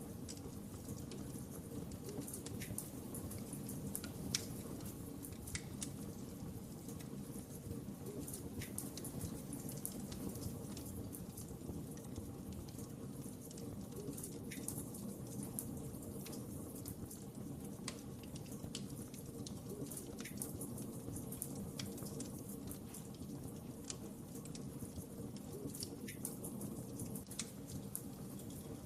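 Wood fire in a fireplace crackling, with frequent irregular sharp pops over a steady low rumble of flames.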